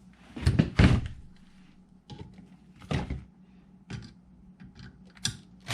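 A few separate knocks and clicks of small parts and tools being picked up and set down on a work surface.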